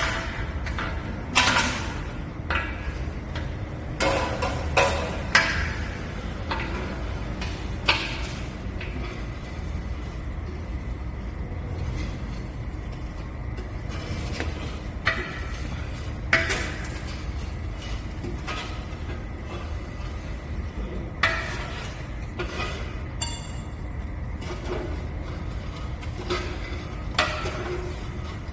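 Scattered metallic clinks and knocks, a dozen or so spread irregularly, over a steady low rumble.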